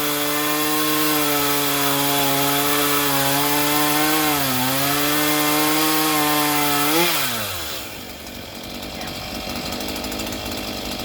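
Two-stroke chainsaw running at high speed while cutting tree limbs, its pitch dipping briefly under load about halfway through. About seven seconds in it revs once and falls away, leaving a quieter, rough rattle.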